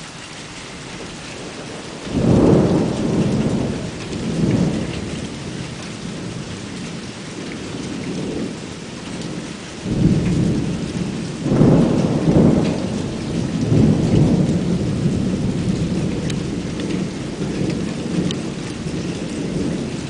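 Rain falling steadily while thunder rumbles: a sudden peal about two seconds in that rolls for a few seconds, then a longer rolling peal from about ten seconds in.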